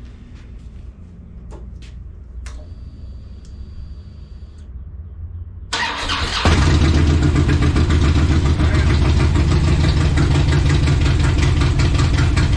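A few light clicks and a short high whine, then about six seconds in the 2007 Harley-Davidson Road King's Twin Cam 96 V-twin cranks on the starter. It catches within about a second and settles into a loud, steady, pulsing idle through its Rinehart exhaust: a cold start, being run to warm up for an oil change.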